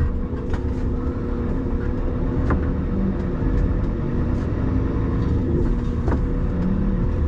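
Scania skip lorry driving along, its diesel engine running at a steady pitch over a low road rumble.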